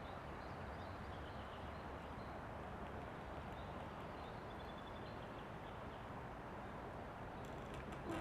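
Steady wind noise through a forest, with a few faint bird chirps and a short high trill. Near the end a dead standing tree trunk starts to creak.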